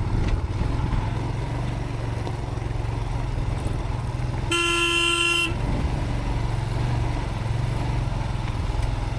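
Motorcycle engine running steadily at low revs on a rough dirt track. A single horn blast about a second long sounds near the middle.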